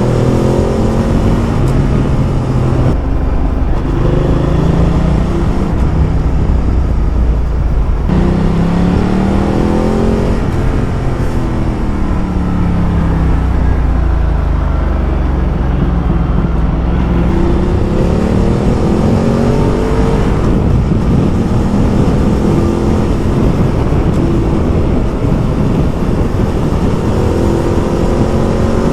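Ducati Multistrada motorcycle engine under way, its note climbing under throttle and dropping back at gear changes or roll-offs several times, over a steady rush of wind noise.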